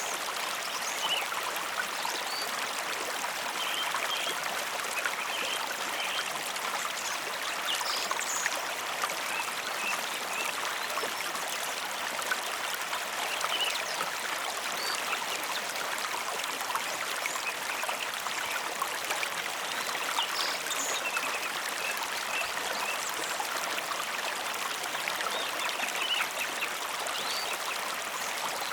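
Mountain river flowing, a steady continuous rush of water with small bright splashes scattered through it.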